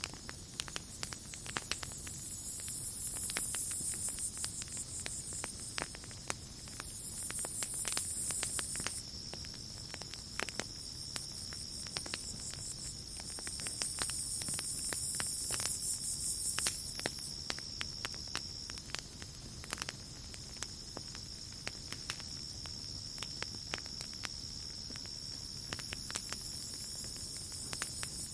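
Campfire crackling with many scattered sharp pops, over a night chorus of insects: a steady high cricket trill, with higher buzzing insect choruses that swell in for a few seconds at a time and fade again.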